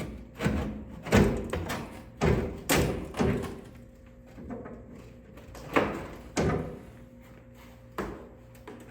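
Irregular thumps and clunks of a steel pickup fender being wrestled and knocked loose from the body, about eight knocks with quiet gaps between them.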